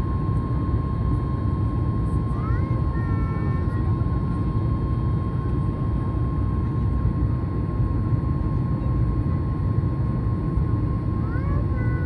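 Airliner jet engines running at a steady roar with a constant high whine through it, as during a takeoff. A brief faint voice-like sound rises over it about three seconds in and again near the end.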